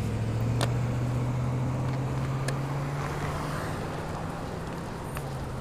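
A motor vehicle's engine running close by with a steady low hum, its pitch rising slightly partway through, with a few light clicks over it.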